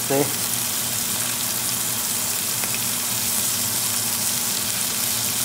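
Beef burger patties frying on a hot stovetop griddle pan: a steady sizzle, with a low steady hum underneath.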